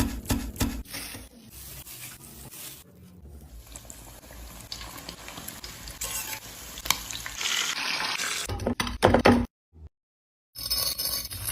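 Chicken frying in hot oil: a steady sizzle that builds to a loud hiss, with utensil knocks and scrapes against the pan at the start and a burst of louder knocks near the end. The sound breaks off for about a second before the frying and clatter resume.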